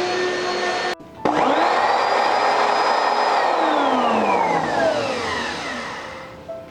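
Oreck upright vacuum cleaner switched on: its motor spins up with a quickly rising whine, runs for about two seconds, then is switched off and winds down with a long falling whine that fades out.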